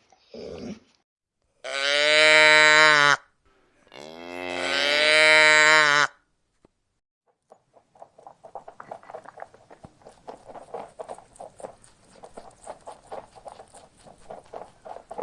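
A cow mooing twice: two long, loud calls, the second rising in pitch at its start. About halfway through, a quieter rapid, irregular pattering of small clicks and taps begins.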